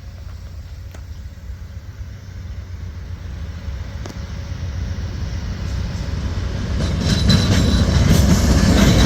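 An Amtrak train's diesel locomotive approaching. The deep engine rumble grows steadily louder, and from about seven seconds in the clatter of wheels on rail rises sharply as it draws close.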